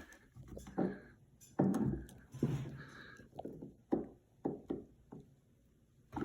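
A series of short knocks and clunks from hard objects being handled, irregularly spaced, with a denser cluster of them around the middle.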